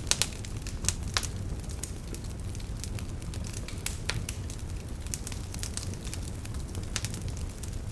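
Wood fire crackling and popping over a low steady rumble, with a few louder pops in the first second.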